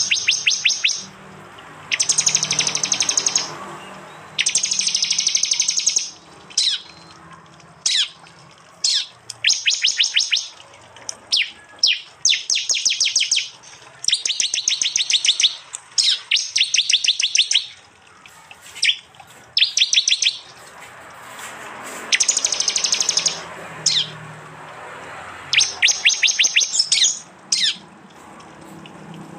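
Prinias (prenjak) singing their rapid 'tembakan' song: loud, dry trills of fast, sharp repeated notes lasting a second or two, given again and again with short gaps, with single sharp chirps in between.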